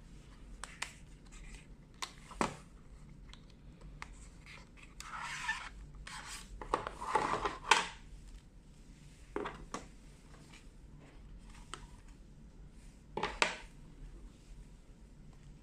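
Phone box packaging being handled and its contents unpacked: scattered taps and clicks, with a longer stretch of rustling and scraping about five seconds in.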